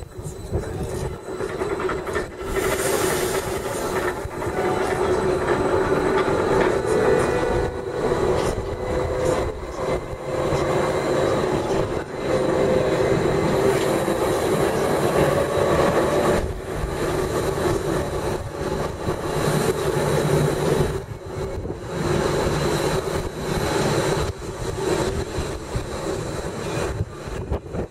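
Ride inside a Gornergratbahn rack-railway train running downhill: steady running noise from the wheels and drive, with a humming whine that rises a little in pitch partway through.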